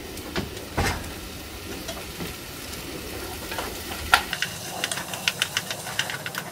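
Potatoes, onions, carrots and beef frying in oil in a pot, with a wooden spoon clicking and scraping against the pot as they are stirred from about four seconds in. A single knock about a second in.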